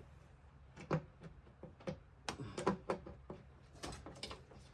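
Scattered light clicks and knocks of engine parts and tools being handled while the intake manifold is lifted off, about a dozen irregular taps.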